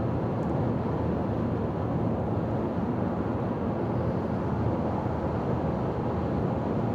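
Car driving at highway speed: steady road and wind noise, even and unchanging.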